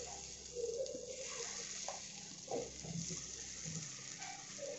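Egg and okra omelette batter sizzling with a steady hiss as it is spooned into a preheated, lightly oiled stainless steel pan.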